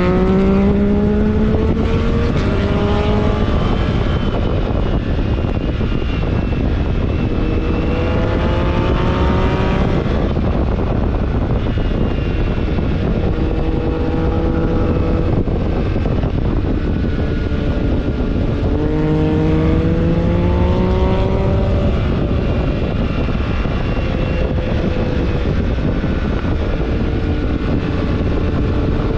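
BMW R1300GS Adventure's boxer-twin engine running under way, its pitch climbing in several pulls and holding steady between them. Heavy wind rush on the onboard microphone.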